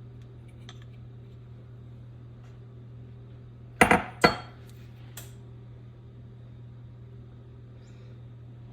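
Kitchenware clattering on a counter: two loud sharp knocks with a short ring about four seconds in, then a lighter one a second later, over a steady low hum.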